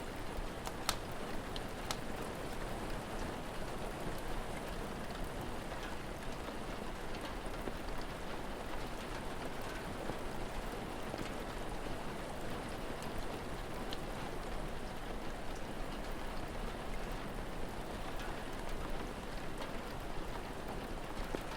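Steady rain, an even dense hiss, with a few sharp crackles from a wood fire, the clearest about a second in.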